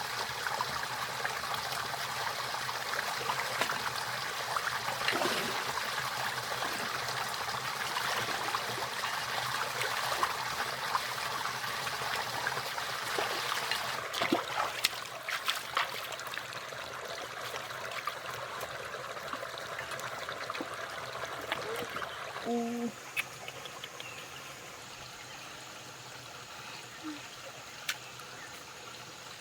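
Water trickling and flowing steadily, with a few sharp splashes or clicks about halfway through. The flow becomes quieter about three-quarters of the way in.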